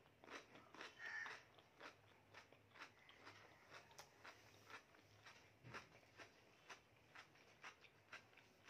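Faint chewing of a mouthful of food with lips closed: soft, wet mouth clicks repeating about two to three times a second.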